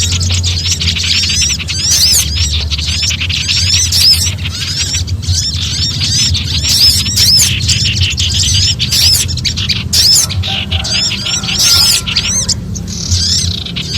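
Mixed small songbirds giving frantic, rapid alarm chatter: dense runs of quick, high, arched chirps, briefly thinning twice. This is the kind of scared, threatened-bird racket used as a lure call. A steady low hum runs underneath.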